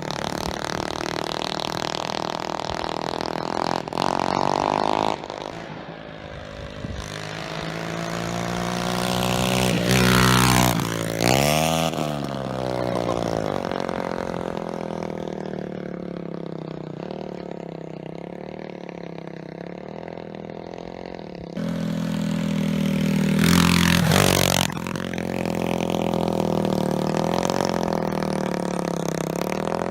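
Pitbike's 125cc Lifan four-stroke single-cylinder engine running. Its pitch climbs steeply and drops back twice, about a third of the way in and again past two-thirds, with steadier running in between.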